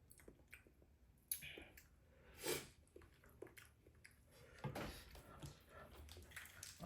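Faint chewing and eating sounds of a person eating spicy noodles, with scattered small mouth clicks and a brief, louder noise about two and a half seconds in.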